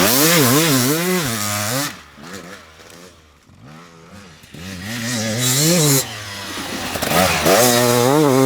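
Enduro dirt bike engine revving hard, its pitch rising and falling over and over with throttle and gear changes. It is loud at first, fades about two seconds in, then builds again and is loud near the end.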